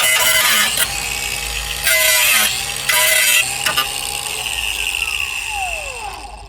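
Angle grinder cleaning rust and underseal off a car's steel sill: a steady whine with two harsher stretches of grinding, then switched off and winding down in falling pitch near the end.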